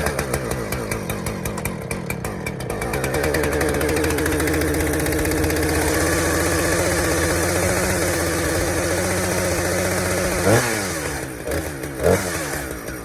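A two-stroke chainsaw engine running steadily. About ten seconds in its speed changes sharply, then it briefly revs up twice near the end.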